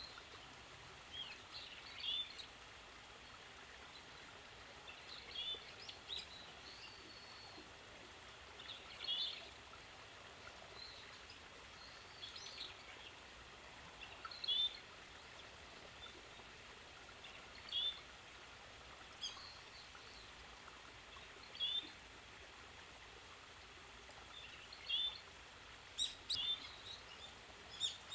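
Bramblings calling: short chirping calls every second or two over a steady background hiss, with a few sharp clicks in the later part.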